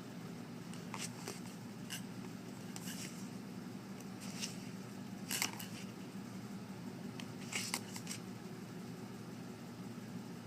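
Papers being handled: scattered short rustles and taps, about eight, the loudest a little past halfway, over a steady low room hum.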